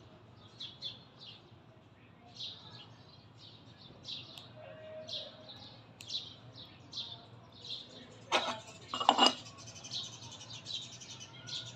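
A bird chirping over and over in short, high, falling chirps, about one or two a second. A brief louder noise breaks in a little past the middle.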